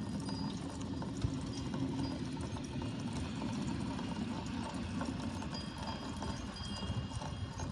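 Rain falling steadily, an even hiss, with faint thin high tones in the second half.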